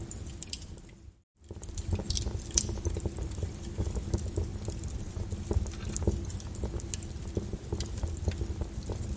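Wood fire in a fireplace crackling, with many sharp irregular pops over a low rumble of the flames. About a second in, the sound cuts out briefly to silence and then the crackling starts again.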